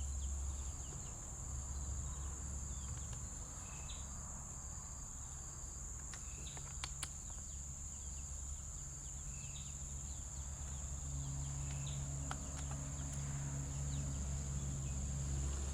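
Steady high-pitched drone of insects, with a steady low hum underneath and a few faint sharp clicks.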